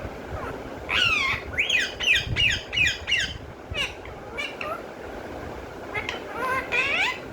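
Pet parrot squawking and chattering in bursts of short calls that bend up and down in pitch, with a quick run of them about two seconds in and another cluster near the end.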